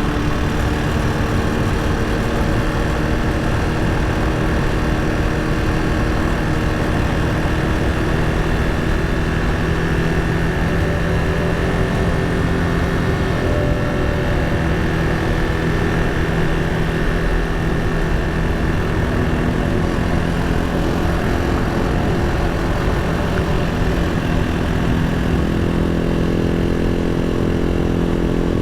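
Janus Halcyon 250 motorcycle's single-cylinder engine running steadily at low speed while riding, its pitch drifting slightly, with wind and road noise on the bike-mounted camera.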